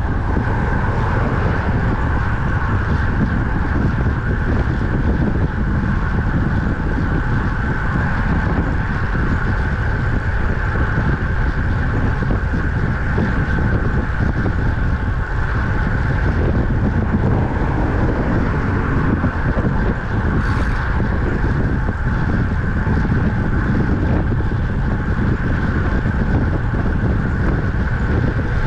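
Steady rush of wind on the microphone of a camera riding on a road bike at speed, with a brief higher hiss about two-thirds of the way through.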